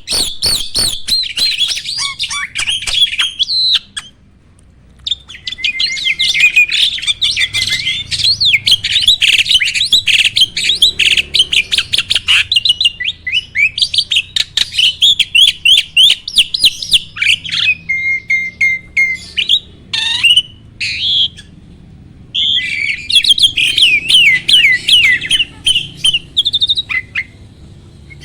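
A jalak (Indonesian starling) singing a rapid, chattering song of quick high notes and whistled glides, breaking off briefly a few times.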